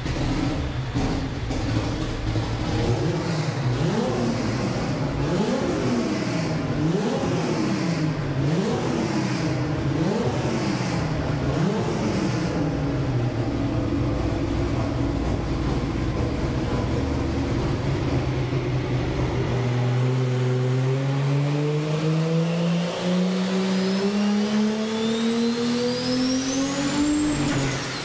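Turbocharged engine of a modified 4x4 on a chassis dyno: revved in quick blips about every second and a half, then idling, then a full-throttle pull of about eight seconds with the engine pitch rising steadily and a turbo whistle climbing high above it. Near the end the revs drop away suddenly as the engine fails, smoke pouring from the engine bay.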